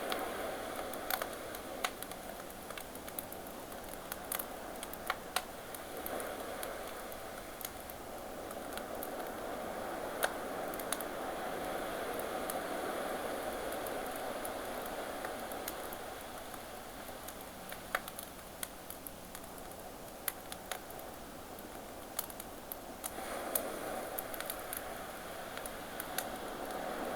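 Campfire crackling with scattered sharp pops over the steady wash of ocean waves, which slowly swell and recede.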